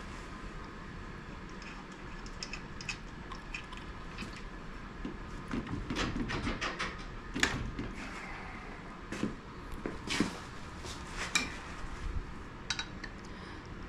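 Irregular metal clinks and knocks of hand tools working at an outboard's lower unit gearcase that is stuck on its alignment dowels. The sharpest knocks come about halfway through and again a little later.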